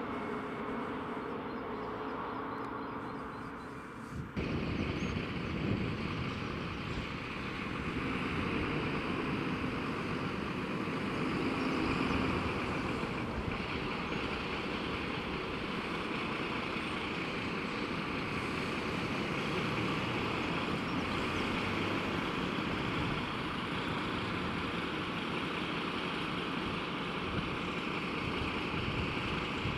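Fire engine's diesel engine running as the truck pulls out, a steady engine rumble with road noise. The sound changes abruptly and gets louder about four seconds in.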